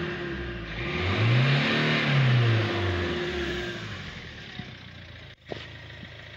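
Kia common-rail diesel engine revved once, its pitch rising and falling back over about two seconds, then settling to a steady idle.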